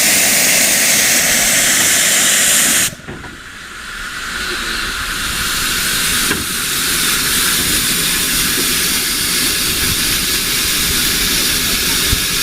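Steam locomotive hissing steam. The hiss cuts off abruptly about three seconds in, then builds back up and holds steady.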